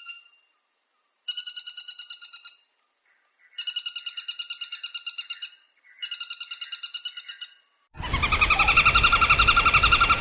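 Woodpecker calling in rapid rattling series of repeated high notes, about ten a second, several calls of one to two seconds each with short gaps between. Near the end a louder call of the same kind comes from a noisier recording, with a low rumble under it.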